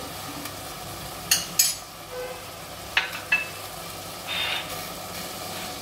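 Chicken pieces and onion sizzling steadily as they fry in oil in a stainless-steel pot. A few sharp clicks, a pair about a second and a half in and another pair about three seconds in.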